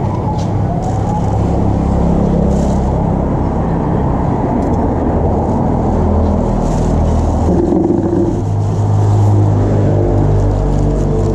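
Street traffic: motor vehicle engines running and passing, a continuous low rumble with shifting engine tones.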